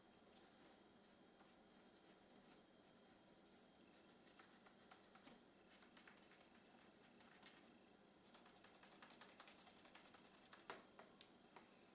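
Faint scratching and small clicks of a cotton swab rubbed over the plastic sensor windows of a Roomba robot vacuum, with light handling of the machine; the rubbing grows busier partway through, and two sharper clicks come near the end.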